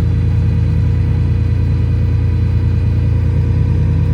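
Combine harvester running, heard from inside the cab: a steady, loud, low drone of engine and machinery that does not change.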